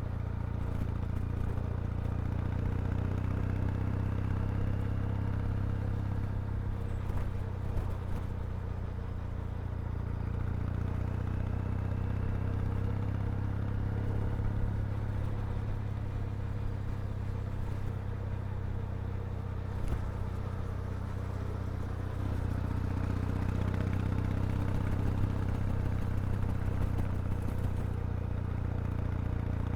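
Kawasaki W800's air-cooled vertical-twin engine and exhaust running steadily under way, getting somewhat louder about two-thirds of the way through, with a few faint clicks.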